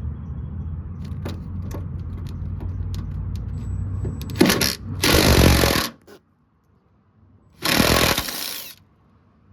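Small cordless impact wrench hammering on a bolt in two bursts, the first about four and a half seconds in and lasting about a second and a half, the second shorter, near the end. A steady low hum runs under the first few seconds.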